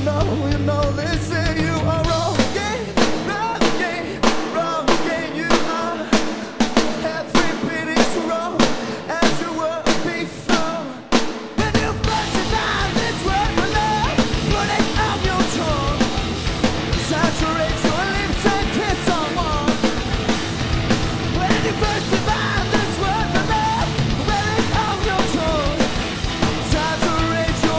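Rock band playing with singing and a drum kit. About two seconds in the bass drops away, leaving drums hitting a steady beat under the voice; the full band crashes back in about halfway through.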